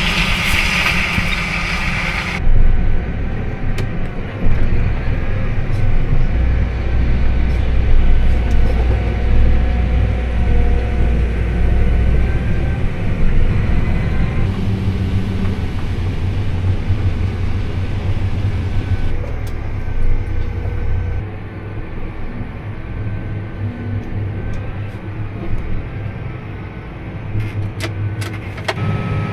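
Engines of heavy farm machinery running steadily through a corn harvest. The sound changes abruptly several times, as one clip of machinery gives way to another.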